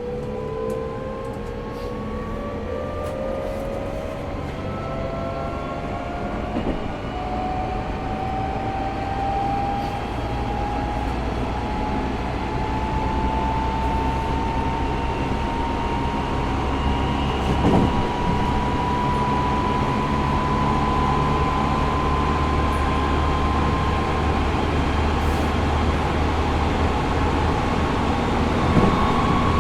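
Tokyo Metro 05 series train with Mitsubishi IGBT-VVVF inverter control, running from inside the car: the inverter and traction motor whine climbs steadily in pitch as the train accelerates. Under it is the rumble of wheels on rail, with a short knock about 18 s in and another near the end.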